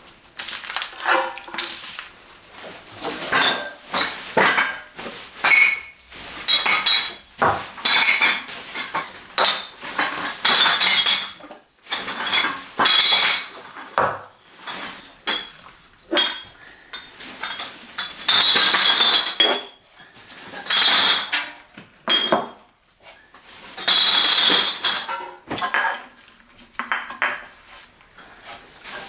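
Dishes and other hard items clattering and clinking as they are handled and set down, in many separate bursts with ringing clinks.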